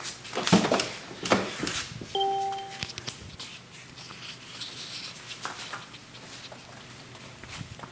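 A few sharp knocks and clunks, then a short electronic beep lasting under a second. Faint rustling and handling sounds follow. No engine is running yet.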